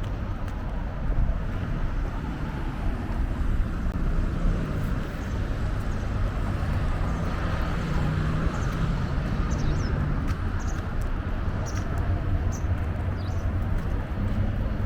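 Street ambience dominated by a steady low rumble of road traffic, with a few short high chirps in the second half.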